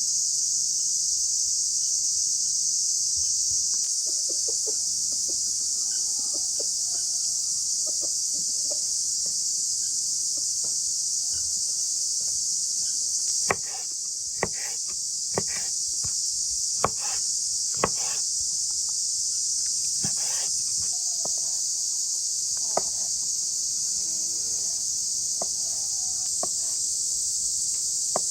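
A steady, high-pitched insect chorus of crickets or cicadas, chirring without a break. In the second half a few sharp clicks or knocks sound over it.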